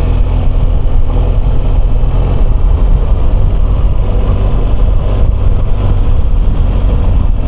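BMW R1200GS boxer-twin engine running steadily while riding, under a dense low rumble of wind and road noise.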